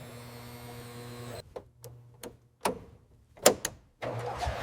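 A steady electrical hum cuts off about a second and a half in. About six sharp switch clicks follow, and a low rumble starts near the end.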